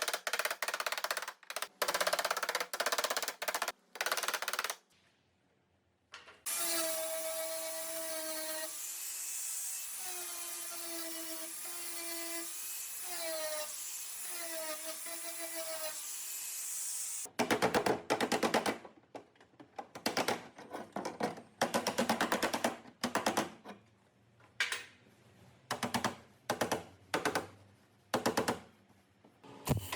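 Power tool run in rapid, rattling bursts, switched on and off repeatedly. For about ten seconds in the middle a steady high whine with a few small pitch changes takes over.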